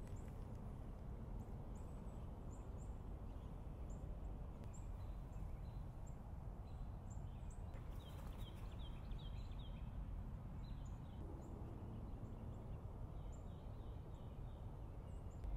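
Quiet outdoor ambience: small birds chirping, with short high chirps scattered throughout and quick runs of lower notes about halfway through and again near the end, over a low steady rumble.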